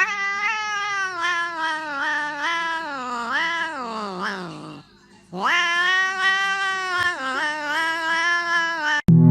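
A cat yowling in two long, drawn-out wavering calls. The first slides down in pitch at its end. After a short pause the second rises and holds, then cuts off suddenly.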